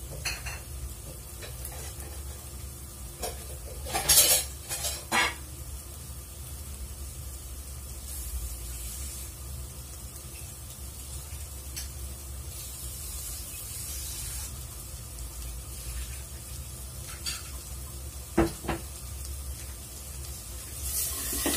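Spice paste, dried shrimp and tempe sizzling in an earthenware pot, with a few sharp clicks and knocks of wooden chopsticks against the pot, the loudest about four to five seconds in. A steady low hum runs underneath.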